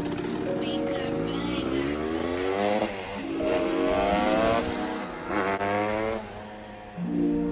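Motorcycle engine revving up and down several times, with quick rises in pitch about three and five and a half seconds in.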